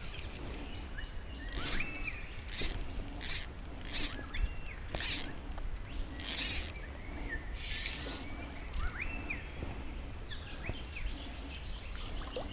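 Birds calling: a run of short, raspy high calls spaced about half a second to a second apart, mixed with thin whistled notes, over a low steady background rumble.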